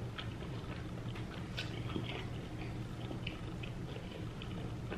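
A person chewing a mouthful of shrimp with the mouth closed: small wet clicks and squishes at an irregular pace, over a low steady room hum.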